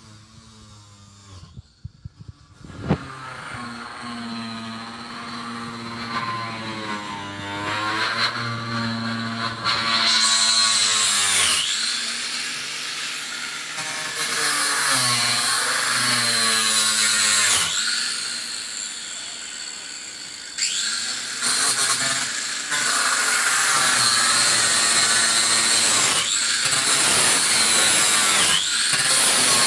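A power tool running in long stretches, its pitch dipping and recovering again and again as it bites into the work, after a few sharp knocks in the first three seconds.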